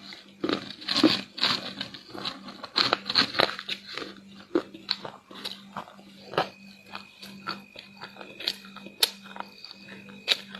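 Close-miked biting and chewing of crispy, crumbly chocolate chunks. Dense crunching for the first few seconds gives way to sparser single crunches.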